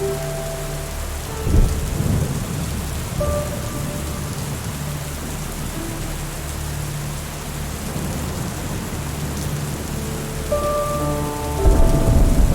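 Steady rain with thunder rumbling, once briefly about a second and a half in and again more loudly near the end. Soft held music notes run beneath it.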